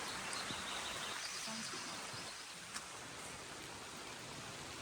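Steady rain falling, an even hiss. A few faint high chirps, likely from a small bird, come in the first two seconds, and there is a single sharp tick near the middle.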